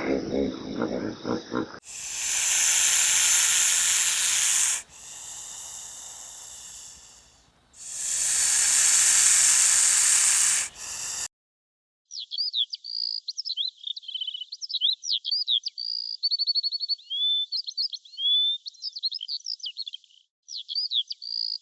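An animal hissing loudly twice, each hiss about three seconds long. After a short pause comes a bird's rapid high chirping, with whistled notes and brief trills.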